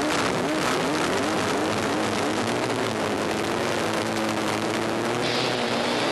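Yamaha WR250 dirt bike engine revving in quick blips at the start line of a motorcycle ice race, then held at steady high revs as it pulls away. A hiss joins near the end as the rear tyre spins up on the ice.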